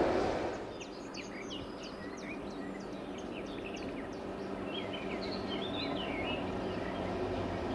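Small birds chirping and twittering in quick runs of short high calls, over a faint low steady hum. A louder rumble fades away in the first second.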